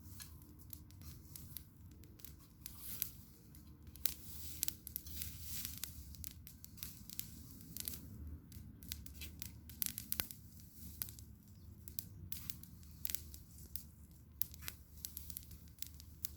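Bonfire burning with irregular crackling and popping, sharp snaps scattered throughout, over a steady low rumble.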